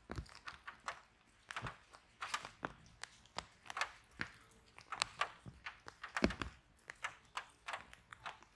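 Wood fire in a fireplace crackling, with irregular sharp snaps and pops and a couple of heavier low pops, one right at the start and one about six seconds in.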